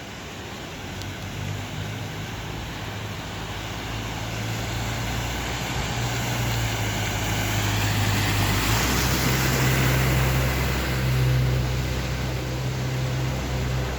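A motor vehicle's engine running close by, growing louder and rising in pitch about eight seconds in, with a hiss that swells as it passes nearest and then eases slightly.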